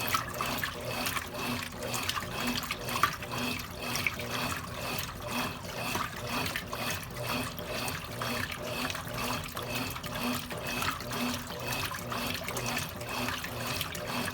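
Water moving in the tub of a Consul Cargo 8 kg top-loading washing machine, a continuous wash of water sound with a soft pulse that repeats a little under twice a second.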